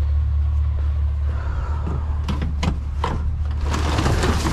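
A salvaged wheelchair being pulled out and handled, giving a few sharp knocks and then a rattling clatter near the end, over a steady low rumble.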